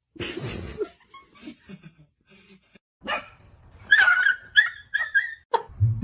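A dog yipping: about four short high yips in quick succession around four seconds in, the first the loudest, after a short noisy burst at the start.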